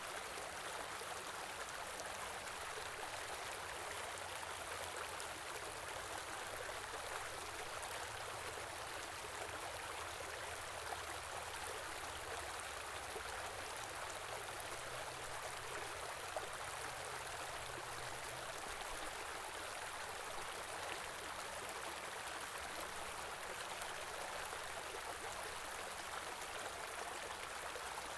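A small stream of flowing water, running steadily with an even rush.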